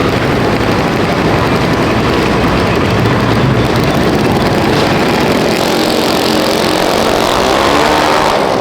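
A loud, steady engine running.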